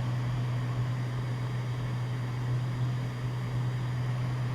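Cessna 206 Stationair's piston engine and propeller droning steadily in the cockpit, a constant low hum under a wash of airflow noise.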